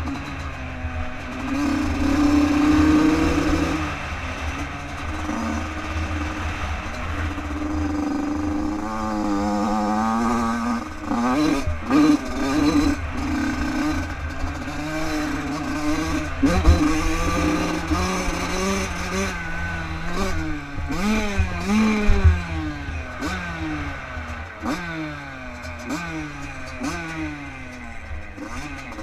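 Bored-out Yamaha YZ Supermini dirt bike's two-stroke engine revving hard and easing off as it rides a motocross track. The pitch keeps climbing and falling, and near the end the bike winds up over and over, about once a second, under a rough low rumble.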